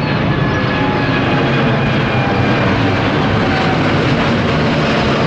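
Jet airliner engines running loud and steady, with a whine of several tones that slowly falls in pitch.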